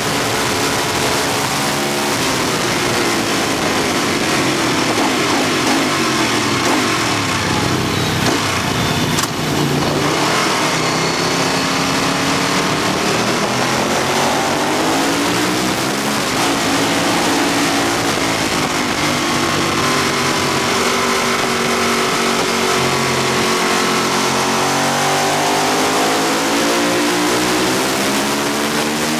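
Ducati superbike's V-twin engine heard from onboard at speed, its note rising as it accelerates through the gears and falling on the downshifts into corners, over heavy wind rush on the microphone.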